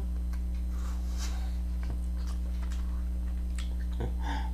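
A steady low hum, with faint, scattered mouth clicks and smacks from chewing a soft glazed doughnut.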